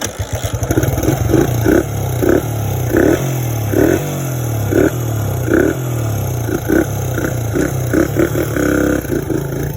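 Suzuki DR100 dirt bike's small single-cylinder engine catching right at the start and running warm, with the throttle blipped over and over in quick short revs.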